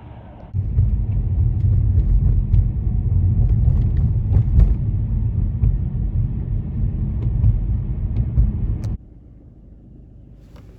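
Loud, steady low rumble of wind and road noise in a moving car, with a few faint clicks; it starts abruptly about half a second in and cuts off abruptly near the end.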